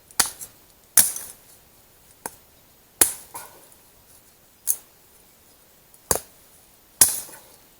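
Axe chopping firewood: about eight sharp, separate strikes at an uneven pace, roughly one a second.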